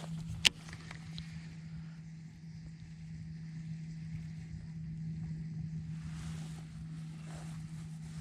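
A steady low hum at one unchanging pitch over low wind rumble, with one sharp loud click about half a second in.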